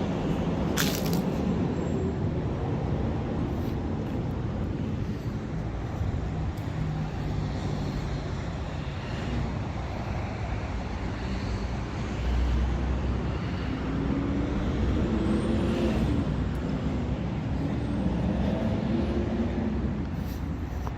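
Road traffic going by: a steady rumble of passing cars and trucks, with a vehicle's engine note rising a couple of times in the second half. There is a sharp click about a second in.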